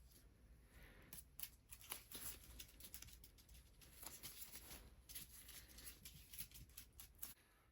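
Hands massaging bare feet close to the microphone: faint, soft rubbing and light skin-friction clicks in quick irregular strokes, which stop shortly before the end.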